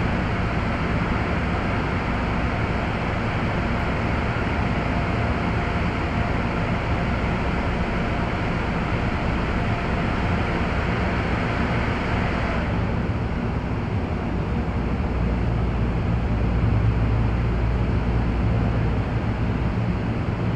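Keio 7000 series electric train running, heard from on board: a steady rumble of wheels and motors. About two-thirds of the way through, the hiss higher up drops away sharply and a deeper low rumble grows.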